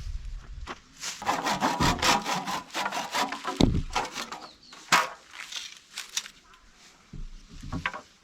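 Wood being worked by hand: a run of irregular rasping, sawing-like strokes with two sharper knocks near the middle, then a few softer strokes.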